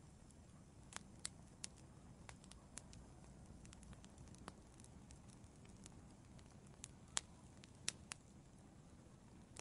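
Wood fire crackling in an outdoor fireplace: irregular sharp pops and snaps, a few louder ones around the middle and near the end, over a faint steady low noise.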